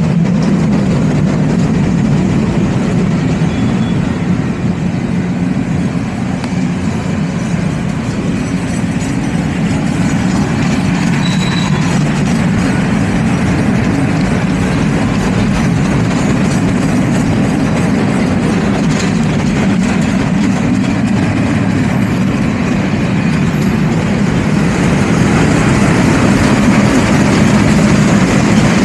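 Freight train cars rolling steadily past at close range: a continuous rumble of steel wheels on the rails.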